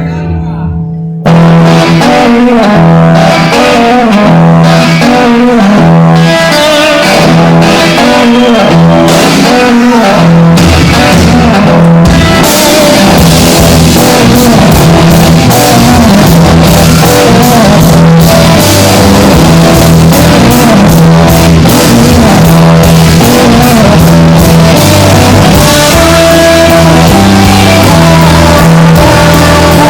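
Rock music played on guitar, bass and drum kit. It starts abruptly about a second in and gets fuller, with louder cymbals, about twelve seconds in.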